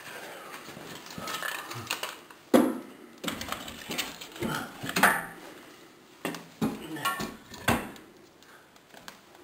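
Firewood being loaded into a wood stove: a series of irregular knocks and clunks as logs are set in the firebox, the loudest about two and a half seconds in.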